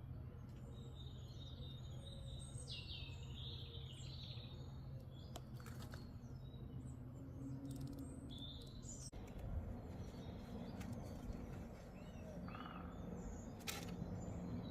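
Forest birds chirping and calling in short, scattered phrases over a steady low background rumble, which changes abruptly about nine seconds in; a few sharp clicks near the end.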